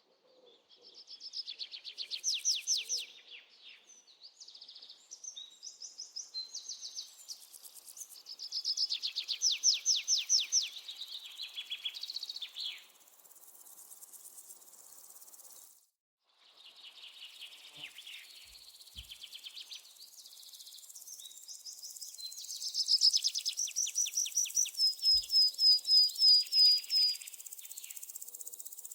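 Small birds singing in fast, high trills and chirps, breaking off briefly about halfway through. A high, steady cricket-like insect hum comes in over the last several seconds.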